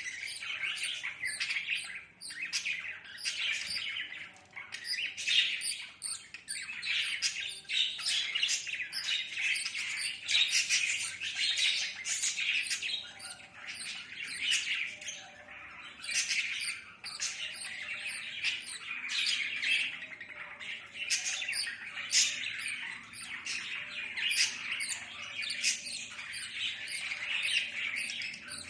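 Budgerigars chattering: a continuous stream of short chirps, squawks and warbles, with brief lulls about two seconds in and about halfway through.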